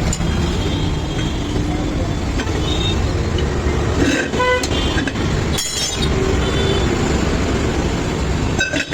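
Steady rumble of road traffic, with a vehicle horn sounding briefly about four seconds in and a second short, loud sound about a second and a half later.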